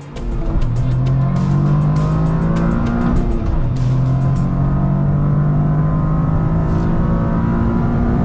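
Toyota GR Corolla's turbocharged 1.6-litre three-cylinder engine accelerating hard. The pitch climbs steadily, drops once at an upshift about four seconds in, then climbs again.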